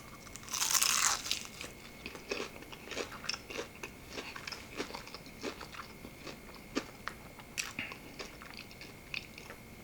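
Biting into the crunchy battered skin of a fried chicken drumstick, with the loudest crunch about half a second in. Close-up chewing follows, with small crisp crackles.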